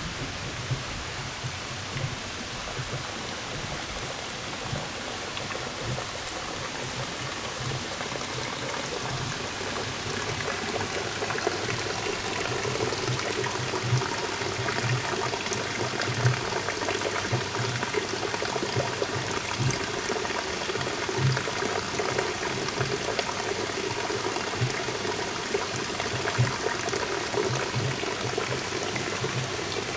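Rushing stream or waterfall water, a steady hiss that grows a little louder about ten seconds in, with scattered low bumps through it.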